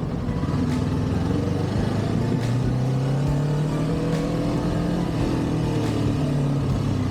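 Kawasaki Ninja 400's parallel-twin engine running through its stock exhaust while riding, with wind noise; the engine note climbs gradually from about two and a half seconds in.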